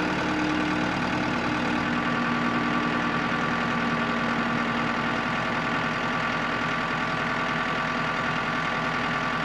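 An engine running steadily at idle, with an even hum and no changes in speed.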